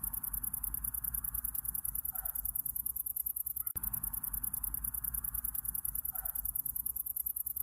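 Night insects, crickets, trilling in a steady, rapid high-pitched pulse over a low rumble, with faint short calls every couple of seconds.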